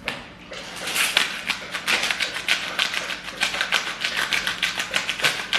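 Salt and pepper grinder being twisted over a steak, a rapid run of dry clicks from the grinding mechanism.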